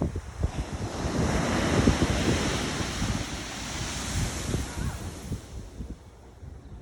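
Pacific Ocean surf: a wave breaks and rushes in, swelling about a second in and fading away over the last couple of seconds, with wind buffeting the microphone.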